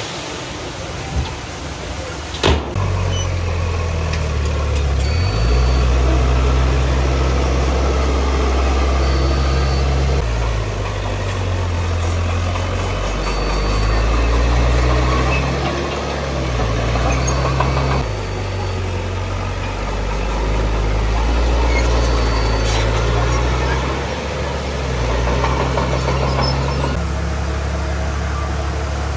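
Large diesel engine of earthmoving equipment working under changing load, its low note stepping up and down every few seconds, with a sharp knock about two and a half seconds in.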